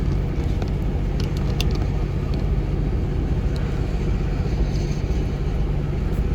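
Long freight train of tank cars rolling past, a steady low rumble with a few faint clicks, heard from inside a parked car.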